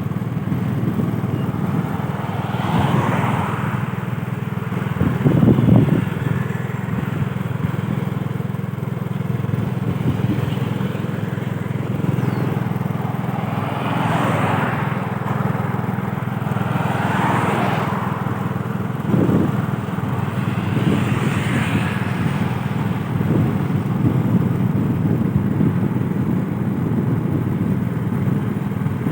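A vehicle engine running steadily at an even speed, with several louder rushing swells over it.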